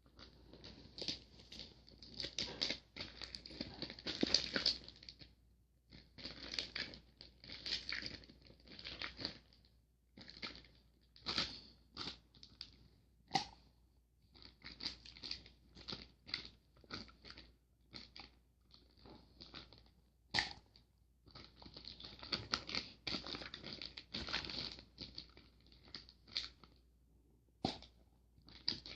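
Homemade clear glue slime being mixed and squished, giving sticky crackling and clicking in irregular bursts, some in quick runs and others single pops.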